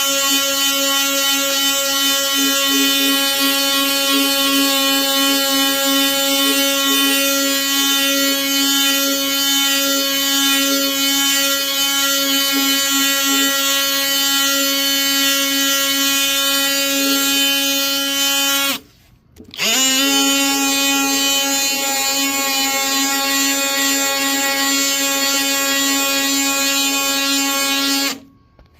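DeWalt 20V Atomic cordless oscillating multi-tool sanding wood, running with a steady high-pitched hum. It stops about two-thirds of the way through, starts again with a quick rise in pitch as it spins back up, and stops near the end.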